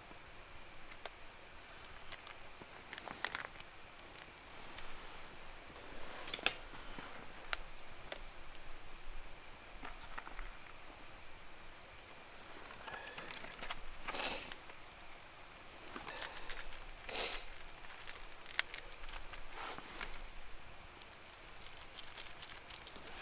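Wood fire crackling, with scattered sharp pops over a steady high hiss.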